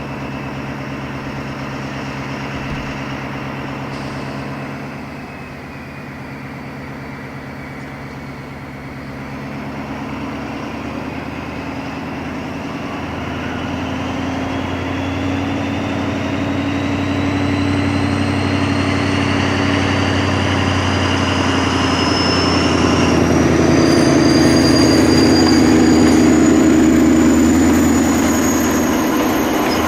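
Diesel locomotive of the SNCF BB 67000 family running and working up as the train pulls away. A rising whine climbs steadily in pitch, and the sound grows louder through the second half.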